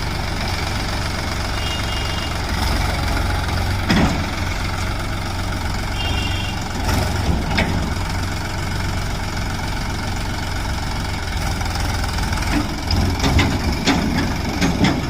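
Heavy diesel engine idling steadily, with a few short knocks: one about four seconds in and several near the end.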